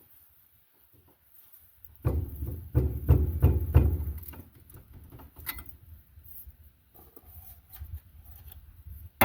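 Metal knocks on a tractor rotary tiller's tines and bolts, about four or five quick strikes in a row lasting two or three seconds, as a stuck tine is worked loose. Lighter clinks and scraping of tool on metal follow.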